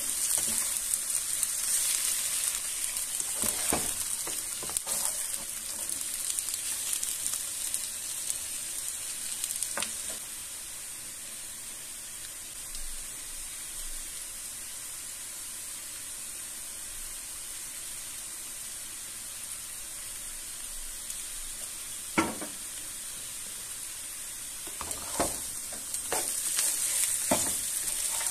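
Sliced potatoes and onion frying in oil in a skillet: a steady hissing sizzle, louder while the slices are stirred and turned with a spatula for the first ten seconds and again near the end. There are scattered clicks and knocks, the sharpest about 22 seconds in.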